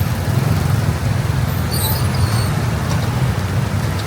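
Steady road noise of motorbike and traffic: a continuous low rumble with a noisy haze above it. A few faint high-pitched squeaks come about two seconds in.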